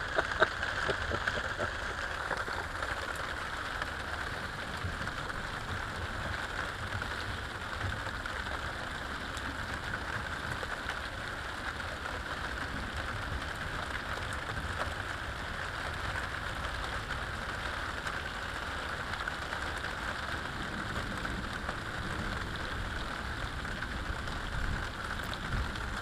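Steady rain falling, with one brief sharp knock about half a second in.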